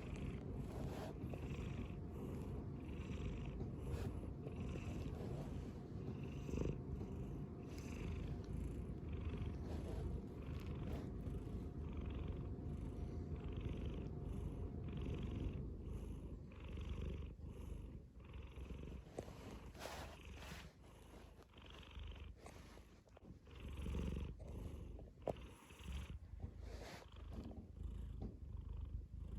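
A cat purring steadily, its breaths making a soft rhythm about once a second.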